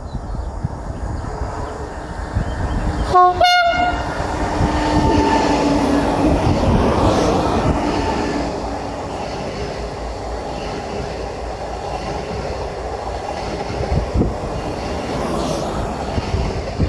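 A train passing through a station, sounding a short horn blast about three seconds in. The running noise then grows loud and stays as a steady rumble.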